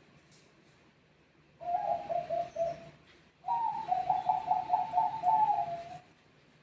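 Zebra dove (Bangkok perkutut) cooing: a short rapid, trilling phrase, then after a brief pause a longer one that starts higher and steps down in pitch near its end.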